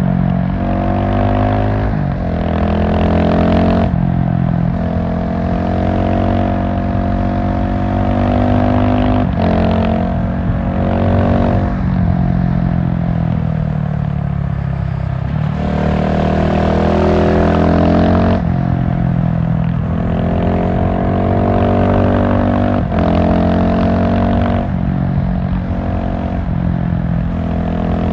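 GasGas SM700 supermoto's single-cylinder engine running under way, the revs rising and dropping every few seconds with throttle changes and gear shifts. Near the middle the revs fall away for a few seconds before climbing again.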